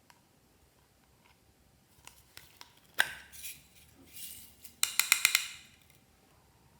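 Small hard objects clicking and clinking against a container, with a sharp click and short rustle about three seconds in and a quick rattle of clicks about five seconds in.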